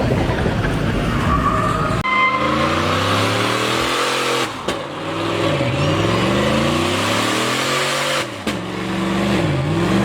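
A car engine revving hard, its pitch climbing and falling over and over, with tires squealing and skidding as the car is spun in a sideshow. The engine drops out briefly twice and comes back on the throttle.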